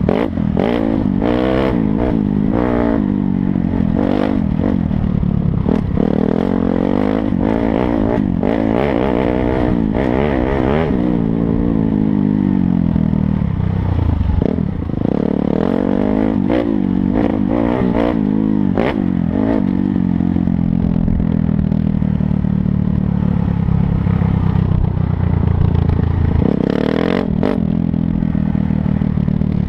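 Dirt bike engine running under load, its pitch rising and falling as the throttle is worked, with frequent clattering knocks from the bike over rough ground.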